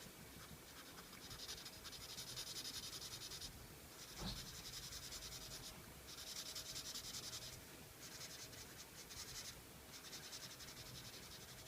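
Felt-tip permanent marker scratching across paper, in repeated strokes a second or two long. A faint tap a little over four seconds in.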